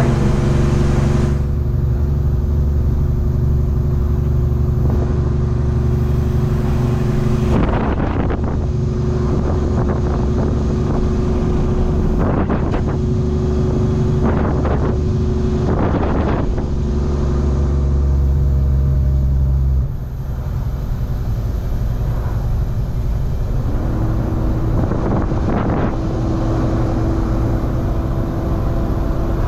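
Semi-truck's diesel engine running steadily, with a few knocks or rattles partway through. About twenty seconds in its sound drops off, and a few seconds later its pitch rises as it picks up again.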